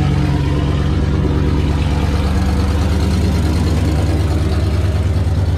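Mustang GT's cammed 4.6-litre three-valve V8 idling steadily through a loud aftermarket exhaust, with a deep, uneven low pulse to the idle.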